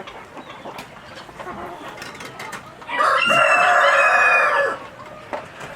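A rooster crows once about halfway through, a loud call lasting under two seconds, with quieter chicken clucking before and after.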